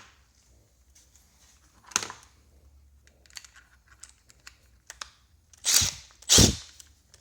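Light clicks and taps of the stripped-down tire inflator's plastic and metal parts being handled, with a sharper click about two seconds in and two louder knocks near the end.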